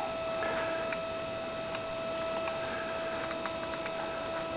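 Steady electrical hum in the camera's audio, interference from a radio-control transmitter bleeding into the camera electronics, with a few faint scattered ticks.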